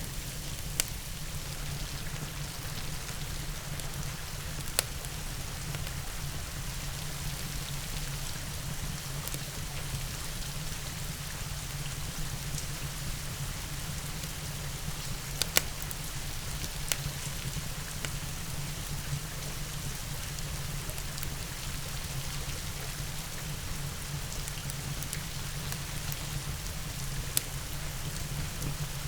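Steady rain falling, an even hiss with a low rumble beneath it. A handful of sharp pops from a crackling wood fire stand out, the loudest about halfway through.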